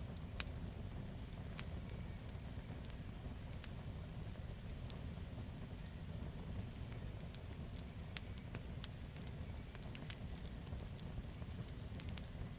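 Campfire burning, with a steady low rumble of flame and frequent sharp crackles and pops from the burning wood.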